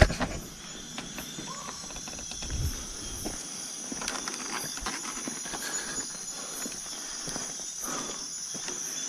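Insects buzzing steadily in high, even tones, with scattered footsteps on the ground.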